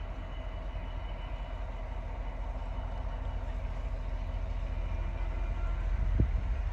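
Class 390 Pendolino electric train passing at a distance: a low, steady rumble that slowly grows louder, with a faint steady hum above it. A single low thump comes near the end.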